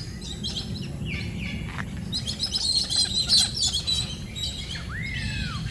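Several birds chirping and tweeting, a busy run of short high calls in the middle, then a single arched call near the end, over a steady low background rumble.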